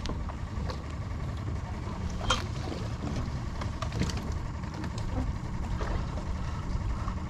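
Boat engine idling: a low steady rumble with a few light clicks and knocks.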